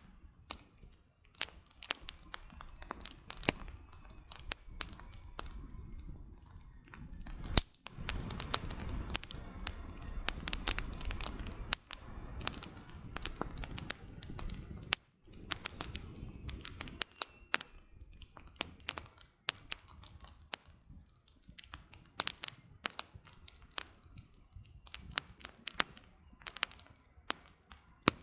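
Wood campfire crackling, with many sharp pops and snaps of burning firewood at an irregular pace. For several seconds near the middle a low rushing of the flames runs under the crackle.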